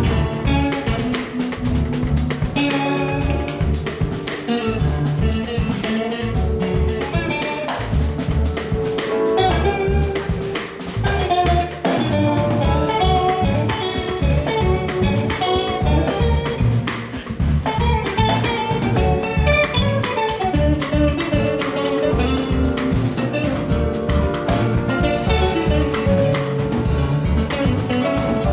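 Live jazz band playing an instrumental: drum kit and bass keeping a steady groove under guitar and piano lines.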